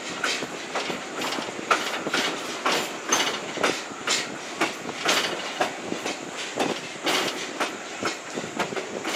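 Railroad passenger coach rolling along, its wheels clicking and knocking over rail joints at an uneven pace, with a steady running rumble underneath.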